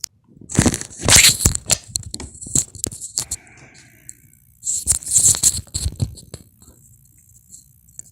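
Headset with a built-in microphone being plugged in and handled: two bouts of loud rustling and rubbing with sharp clicks and knocks, quieter between.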